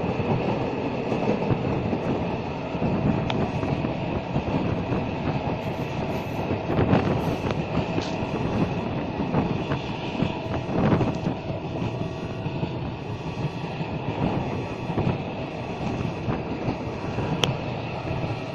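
Indian Railways express train running at speed, heard from an open, barred coach window: a steady rumble and rush of wheels on the track, with a few sharp knocks from the running gear.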